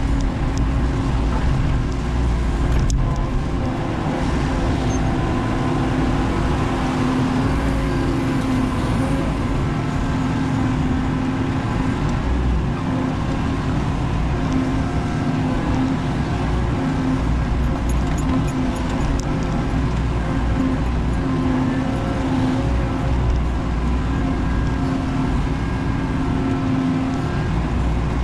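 Menzi Muck spider excavator's engine running steadily under work, a continuous hum with a low rumble.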